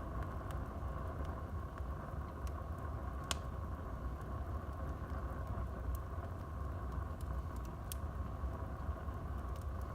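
Wood fire burning in a fireplace: a steady low rumble of the flames with scattered sharp crackles and pops from the burning wood, the loudest pop about a third of the way in.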